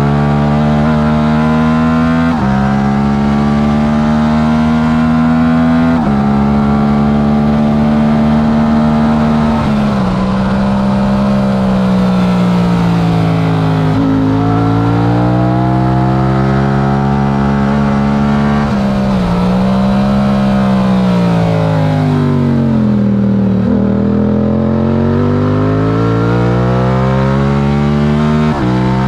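Yamaha R7's stock 689 cc parallel-twin engine at race pace. It pulls hard through three upshifts in the first ten seconds, then its revs fall and climb again several times under braking and acceleration through corners.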